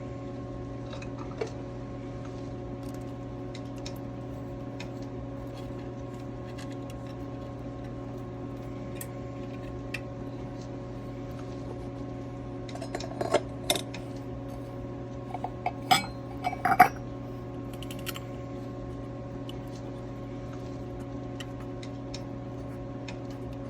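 Metal tools and engine parts clinking and clattering during reassembly, in scattered clinks with a busier cluster a little past the middle. A steady hum runs underneath throughout.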